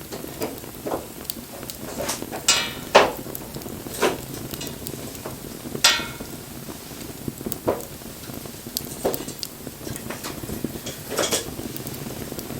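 Wood fire crackling: a steady hiss with sharp, irregular pops and cracks. The loudest pops come about two and a half seconds in, around six seconds and near the end.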